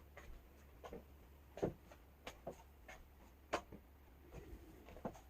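Faint, irregular small clicks and taps, about eight over a few seconds, over a low steady hum.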